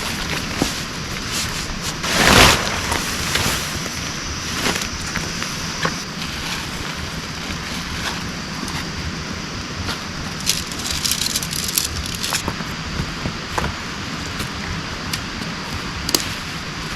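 Heavy rain falling steadily, with scattered sharp taps and drips through it and a short, louder rustle about two seconds in.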